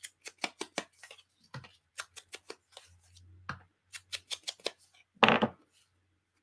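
Ink pad being dabbed along the edges of a paper card to age them: a run of short strokes, several a second. One louder knock comes about five seconds in.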